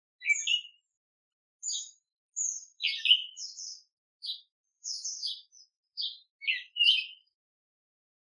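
Small songbirds chirping and calling: a string of short, high chirps and call notes with brief gaps between them.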